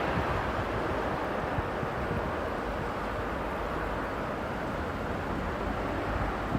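Jet airliner engine noise, a broad rushing roar that fades slowly over the first few seconds as the aircraft moves away, with wind on the microphone.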